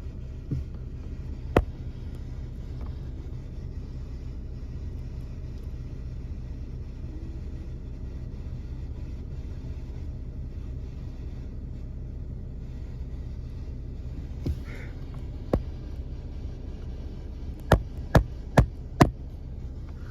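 Steady low rumbling noise, broken by sharp knocks: one early, one later, and four in quick succession near the end.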